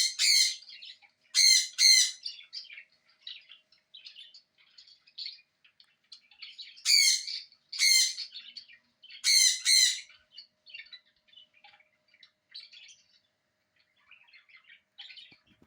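Pet parrot screaming in loud, harsh squawks, mostly in pairs: near the start, around two seconds in, and again from about seven to ten seconds in. Softer chirps and tweets fill the gaps between them.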